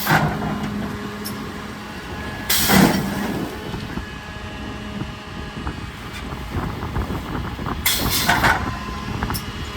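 Mercedes Econic refuse truck running steadily, with short bursts of hissing air about three seconds and eight seconds in.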